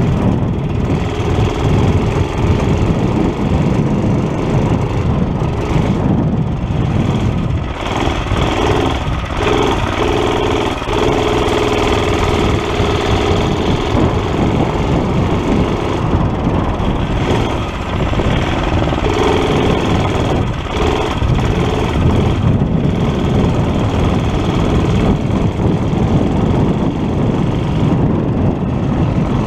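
Small single-cylinder Tecumseh engine of a Murray mini bike running during a test ride, its note rising and falling as the throttle changes. It runs somewhat hesitant, which the rider thinks may mean the carburetor needs cleaning again.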